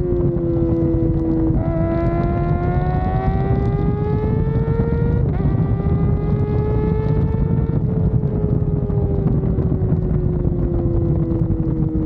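Kawasaki ZX-4RR's 399 cc inline-four engine pulling under way, its pitch climbing steadily, dropping sharply at a gear change about five seconds in, climbing again, then easing off and falling over the last few seconds. Heavy wind rumble on the microphone underneath.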